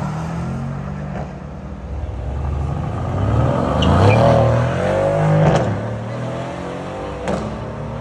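Mercedes-AMG sedans accelerating hard from a standing start, one after another, engines revving up. A rising engine note swells about midway.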